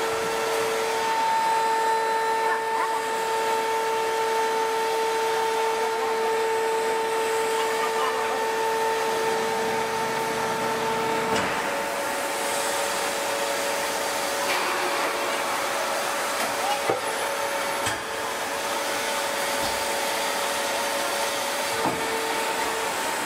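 Large hydraulic forging press working under load on a red-hot forging: a steady hiss with a high mechanical hum that shifts to a slightly higher pitch a little past halfway. A few faint knocks are heard in the last part.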